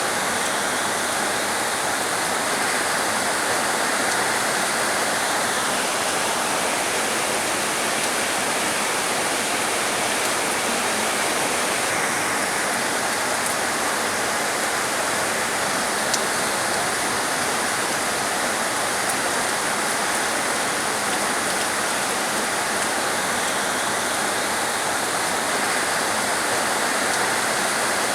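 Heavy rain falling steadily as a dense, even hiss, with a slightly brighter layer that fades in and out a few times.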